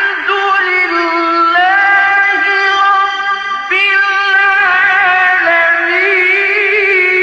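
A male reciter chanting the Qur'an in the melodic tajweed style, drawing out long held notes with gliding, ornamented pitch. A new phrase starts about halfway through, and the held note wavers near the end.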